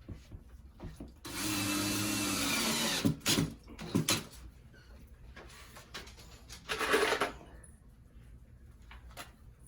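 A handheld power tool runs steadily for about two seconds and stops, followed by several sharp knocks and a second brief burst of noise a few seconds later.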